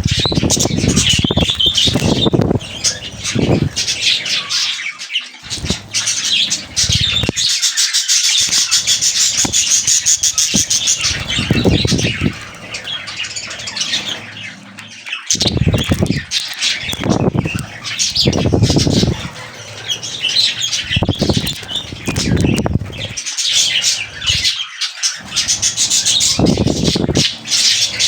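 Budgerigars chattering and warbling without pause, with loud, noisy bursts of wing flapping every second or two.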